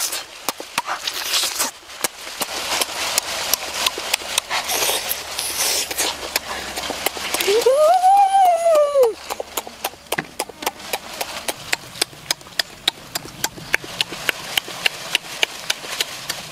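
Close-up eating sounds: a steady run of lip smacks and chewing clicks, several a second, with a rising-then-falling vocal "mmm" of enjoyment about eight seconds in.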